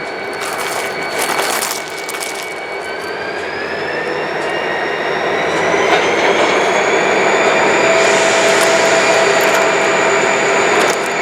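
Train passing close by: a steady rumble with a high whine that rises in pitch from about three seconds in, then holds, the whole sound growing louder toward the end.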